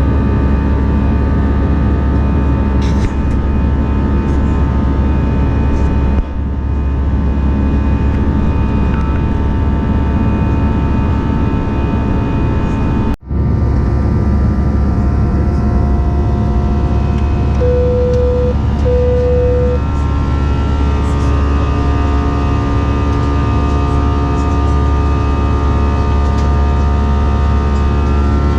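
Steady engine and airflow noise inside an Airbus A319's cabin in flight: a strong low rumble with several steady tones over it. About two-thirds of the way in come two short beeps of the same pitch, a second or so apart.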